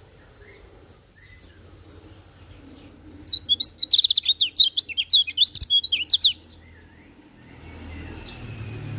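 Kecial kuning (white-eye) singing: a rapid, high chattering song phrase of about three seconds, with faint scattered calls before it. A low background rumble rises near the end.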